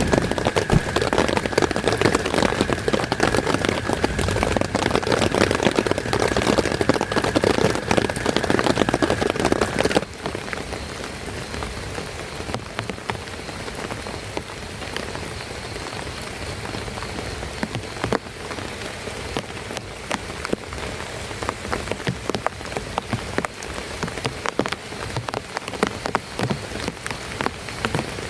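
Heavy rain falling, a dense patter of many drops. About ten seconds in it suddenly becomes quieter and softer, then carries on steadily.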